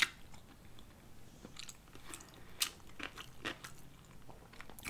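Close-miked eating sounds of sushi: chewing and mouth noises with scattered short sharp clicks and crunches, one at the very start and the loudest about two and a half seconds in.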